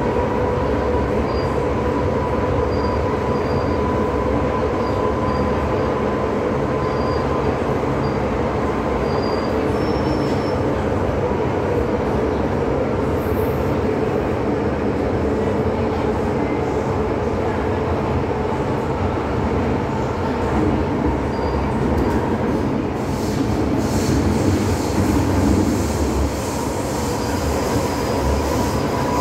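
MTR M-Train metro train running on the Tsuen Wan Line: a steady rumble of wheels on track with a held whine, growing louder and hissier for a few seconds near the end.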